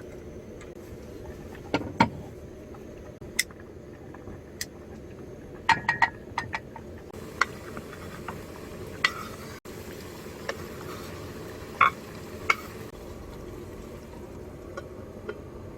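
Dishes and utensils clinking and tapping, a dozen or so short, scattered knocks over a steady low hum.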